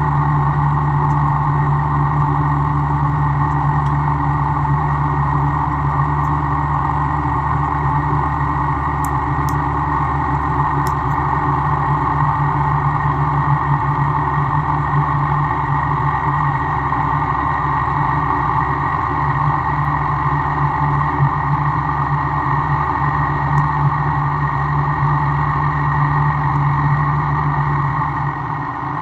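A workshop machine running steadily with a constant hum, its deep low part dropping away just before the end.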